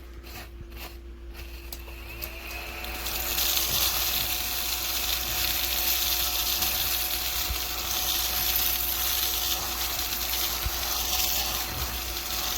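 A few quick shakes of a salt shaker, then a cordless mini desktop vacuum cleaner switches on about two seconds in: its small motor's whine rises to a steady pitch under a loud airy hiss as it sucks up table salt.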